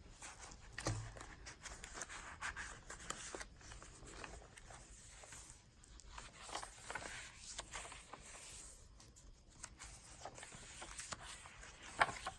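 Pages of a handmade journal being turned and handled: faint, irregular paper rustling and crinkling with small taps, a soft thump about a second in and a sharper click near the end.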